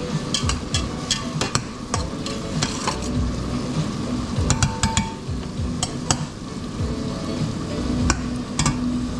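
A utensil stirring and scraping food in a pan, with many sharp clicks against the pan and a low hum that comes and goes.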